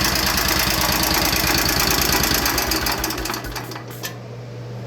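1945 Cushman Model 54 scooter's single-cylinder Husky engine idling with a rapid, even beat, then shut off about three seconds in and dying away, leaving a faint low hum.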